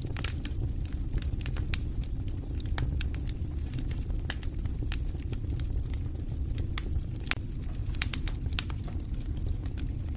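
Campfire burning, wood crackling and popping in irregular sharp snaps over a steady low rumble of flame.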